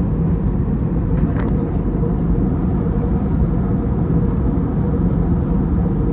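Airbus A321neo cabin in cruise, heard from a rear window seat: a steady deep rush of engine and airflow noise with a faint even hum. A brief, faint, higher sound comes through about a second and a half in.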